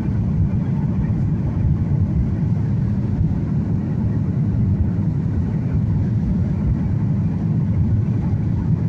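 Steady, even drone of engine and airflow noise inside the cabin of a Boeing 737 airliner.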